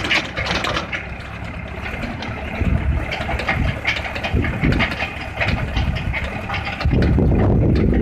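Tractor engine running, with irregular mechanical clatter and knocks. About seven seconds in, the sound switches abruptly to a heavier, deeper rumble.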